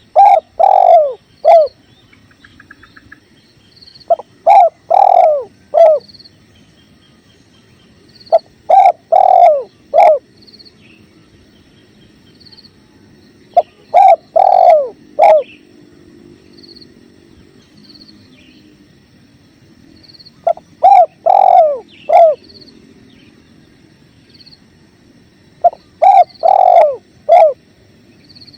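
Spotted dove cooing, six phrases of three to four low, curved coo notes, each phrase about two seconds long and a few seconds apart. Faint running river water and faint high chirps sound underneath.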